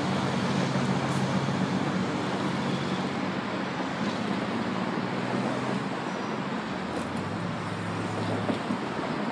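Comeng electric suburban train pulling out of the station, its running noise and low motor hum slowly fading as it leaves.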